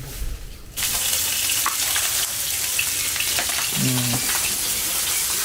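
Food sizzling in hot oil in a pan, a loud steady frying hiss that starts suddenly about a second in.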